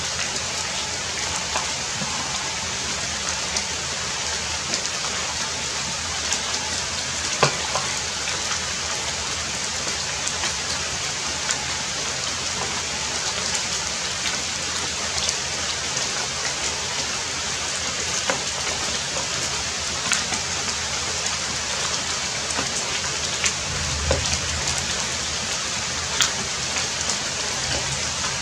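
Heavy rain falling steadily, with scattered sharper drops striking close by.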